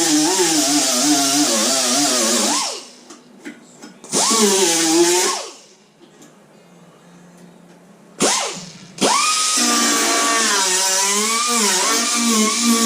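Electric grinder working on the welded steel repair of a car door, its pitch wavering up and down as it is pressed onto the metal. It stops twice, briefly starting again in between, and then runs steadily again.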